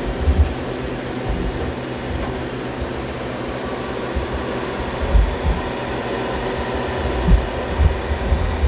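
Cooling fans of a 12 V 3000 W low-frequency inverter and of two electric space heaters running steadily under a maximum load of about 3 kW, with a steady hum beneath and a few low rumbles.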